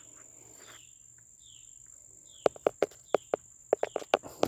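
A quick run of about a dozen sharp taps starting about halfway through: the pet bird's beak pecking at the camera. Faint short chirps, like a cricket's, repeat steadily underneath.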